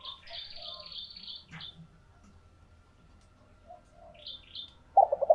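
A small bird's high, rapid chirping twitter fills the first second and a half and comes again briefly about four seconds in. Near the end a spotted dove starts its cooing call with loud, low coo notes.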